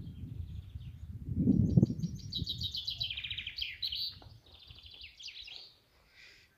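Small songbirds singing in rapid trills and chirps, densest in the middle. In the first two seconds a low rumble, loudest about a second and a half in, sits under the birdsong.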